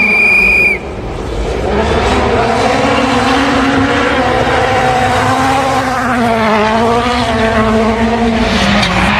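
Rally car engine revving hard, its pitch rising and falling with throttle and gear changes. A high steady tone sounds for under a second at the start, before the engine comes in.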